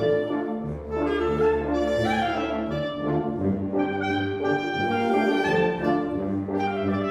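Community concert band playing live, brass to the fore: sustained chords over a held low bass line, shifting about once a second.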